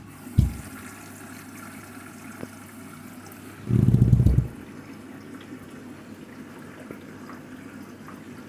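Candy front-loading washing machine filling with water at the start of its duvet and quilts wash, a steady rush of incoming water. About four seconds in there is a brief louder low rumble, with a shorter low thud near the start.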